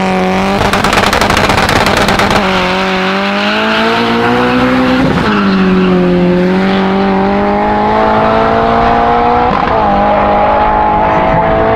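A sedan drag car launching off the start line and accelerating away up the quarter mile. It opens with about two seconds of harsh, rough engine noise, then the engine note climbs steadily in pitch, dropping at gear changes about five and nine and a half seconds in.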